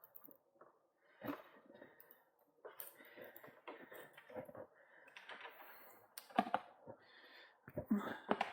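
Scattered small clicks, taps and rustles of bicycle gear cable and housing being handled and fitted. There is a sharper knock just over a second in and a cluster of louder clicks near the end.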